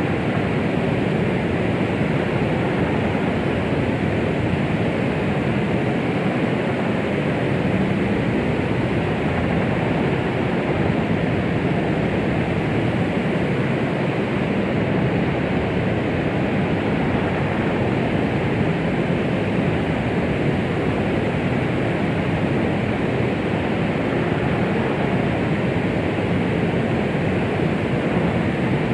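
Steady white noise meant as a womb sound for calming a baby: an unchanging, deep rushing hiss, heaviest in the low and middle range, with no rhythm or breaks.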